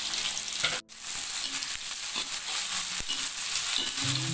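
Chopped onions, tomato and curry leaves sizzling in hot oil in a wide metal pan while being stirred, a steady hiss that cuts out for an instant about a second in.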